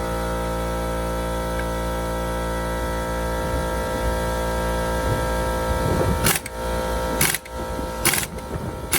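Steady electrical hum, with a few sharp clicks and knocks in the second half.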